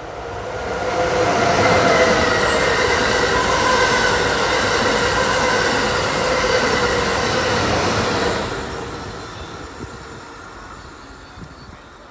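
Amtrak Acela Express high-speed trainset passing at speed: a rushing of wheels on rail and air with a steady whine in it, building quickly to a peak and dropping away sharply near the end as the last car clears.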